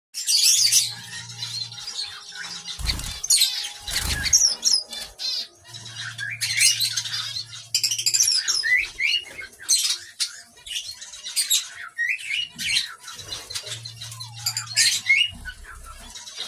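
Shaft-tail finches calling in an aviary: many short, high chirps, several birds overlapping. A low hum comes and goes, and there are a few low thumps, about three and four seconds in and near the end.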